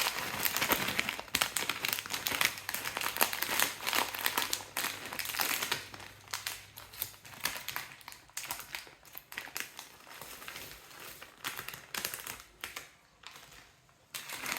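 Plastic snack packets crinkling and rustling as they are handled, a dense run of irregular crackles that thins out and fades near the end.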